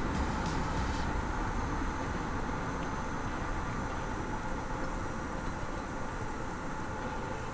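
Cessna 152 cabin during the landing flare and touch-and-go rollout: its Lycoming four-cylinder engine throttled back to idle, a steady low rumble with a faint hum over it, easing slightly quieter.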